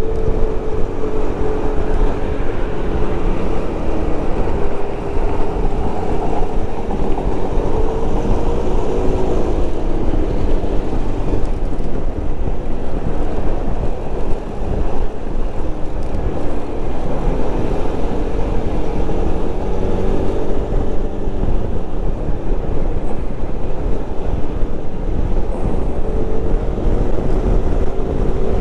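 Wind buffeting a helmet-mounted microphone on a moving motorcycle, with the engine's pitch rising and falling as the speed changes.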